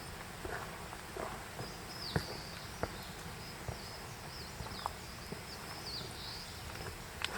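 A hiker's footsteps on a trail: short, irregular knocks about once a second. A bird calls repeatedly over them in short, high chirps that slide up and down in pitch.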